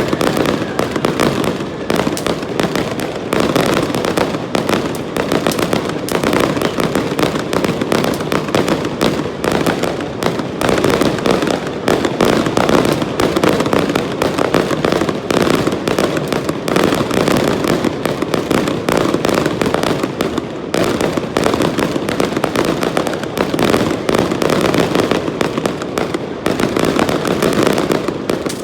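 Aerial fireworks display: a dense, continuous barrage of many rapid bangs and crackles overlapping one another.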